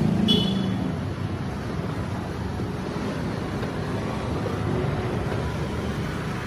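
Steady low rumble of motor-vehicle engines, with a brief high-pitched squeak or beep about a third of a second in.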